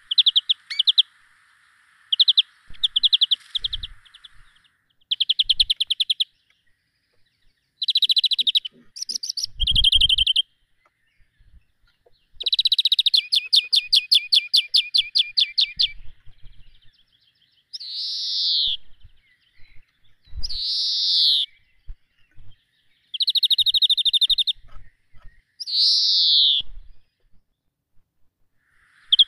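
Small songbirds calling in a series of rapid, high trills and chirps broken by short pauses, with a few short falling calls in the second half.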